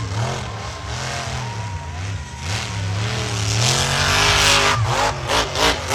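Monster truck engine revving, its pitch swinging up and down, with a quick run of short throttle blips near the end.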